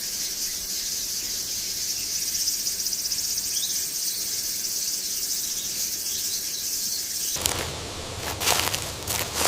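Dense, steady high-pitched insect chorus. About seven seconds in it cuts off abruptly, giving way to crackling and rustling with sharp clicks.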